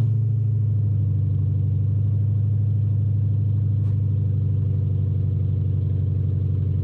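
2005 Mercury Grand Marquis 4.6-litre V8 idling steadily just after a cold start, exhaust running straight from the catalytic converters through an H-pipe with no mufflers. It sits at a raised cold idle, which is why it is louder than it will be once warm.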